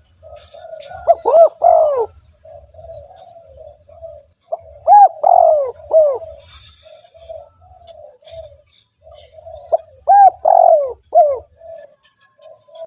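Spotted doves cooing. Three loud phrases of arched, rising-and-falling coo notes come about a second in, midway and near the end, with softer repeated cooing running between them.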